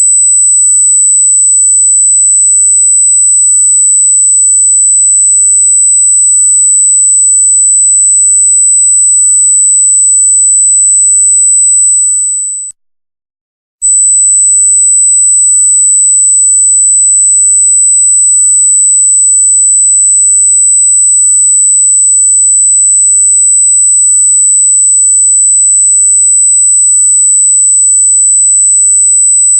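A loud, very high-pitched pure electronic tone held at one steady pitch. About twelve seconds in it fades, drops out for about a second, then cuts back in abruptly at full level.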